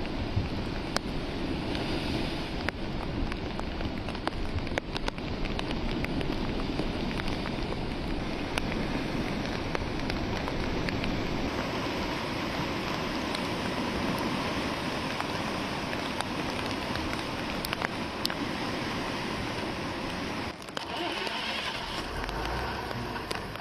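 Heavy rain falling steadily, with scattered sharp drop hits, briefly dropping away about 21 seconds in.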